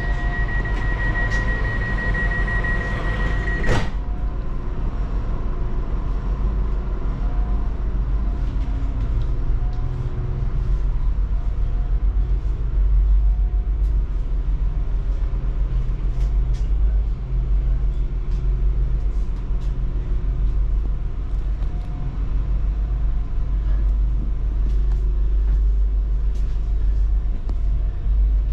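A regional passenger train heard from on board. A steady high beep, typical of a door warning, ends with a sharp knock about four seconds in as the doors close. After that a steady low rumble runs on, with faint whines shifting in pitch.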